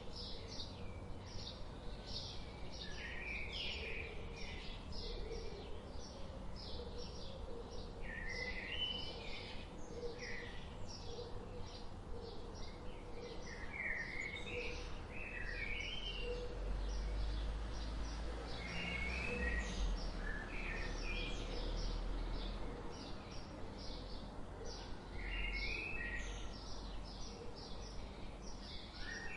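Several songbirds chirping and singing in quick, repeated short notes, over a steady low rumble that grows louder in the middle.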